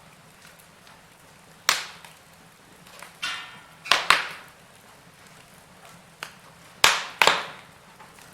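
Wood fire in a fireplace crackling, with a handful of sharp, loud pops and snaps. There is one pop early, two close together about four seconds in, and two more near the end.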